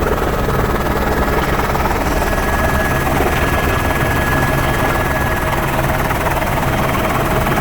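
Helicopter in flight, heard from on board: steady rotor and engine noise with a thin, high whine running through it.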